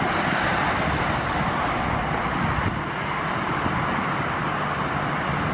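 Jet engine noise of a Boeing 787 departing at takeoff power: a steady, even rush with a low rumble underneath, mixed with wind on the microphone.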